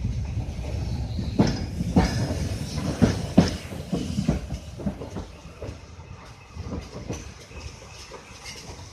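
Train hauled by Wightwick Hall, a GWR Modified Hall 4-6-0 steam locomotive, running along the track. Its wheels give a low rumble and irregular clanks over the rail joints. The sound grows fainter over the second half.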